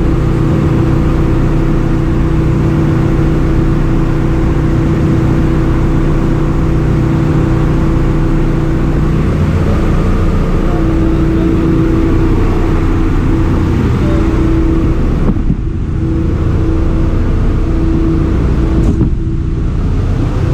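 Ship's engine room machinery running: a loud, steady drone with humming tones over dense mechanical noise. The sound turns briefly duller twice near the end.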